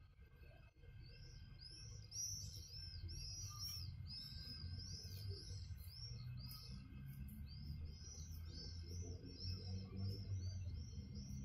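Small birds chirping in a dense chorus of short, quick, repeated chirps, starting about a second in, over a low steady hum.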